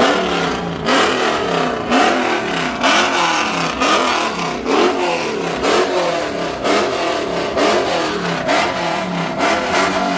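Car engine revved in a rapid string of quick blips, each rising and falling in pitch, about one and a half a second, loud throughout.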